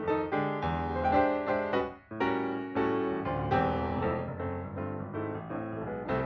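Background piano music: a steady run of keyboard notes with a brief pause about two seconds in.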